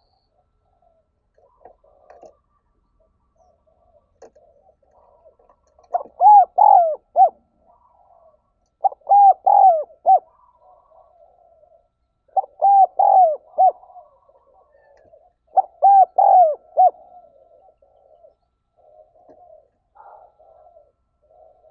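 Spotted dove cooing: four loud phrases of several arched coo notes, about three seconds apart, with fainter cooing in between.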